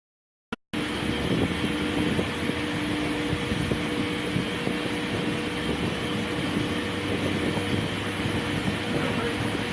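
Silence, a brief click about half a second in, then a steady mechanical rumble with a low hum, like engines running outdoors.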